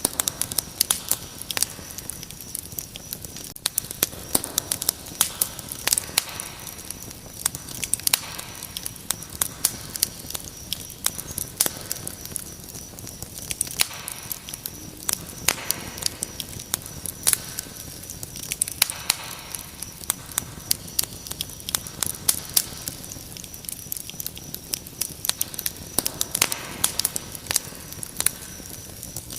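Wood fire crackling, with frequent sharp pops, over a steady high-pitched chirping of crickets.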